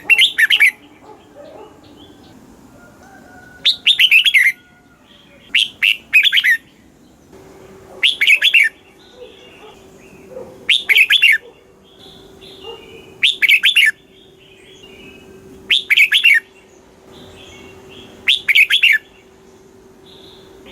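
Red-whiskered bulbul singing short, loud warbled phrases, repeated about every two and a half seconds, once as a quick double. A faint steady hum runs underneath from about a third of the way in.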